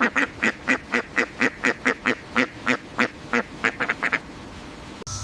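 A bird giving a rapid series of short, loud calls, about four a second, irregularly spaced, that stops about four seconds in. A second later there is an abrupt cut to a steady hiss with a low hum.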